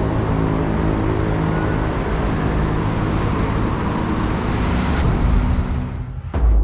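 RAM Rampage Rebel pickup driving with its 2.2 turbo diesel engine running, a steady rumble of engine and road noise. It drops away briefly near the end.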